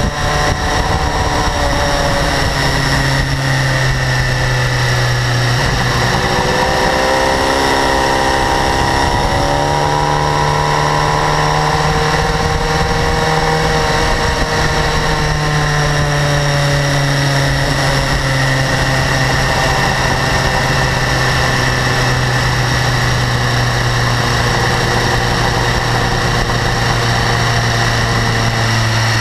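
BMW S1000RR inline-four engine idling, with the high-frequency ticking that has grown louder over its first 4,500 km; the owner suspects valve clearance or the exhaust interference-pipe flaps. The engine speed dips and rises slightly a few seconds in, then holds steady.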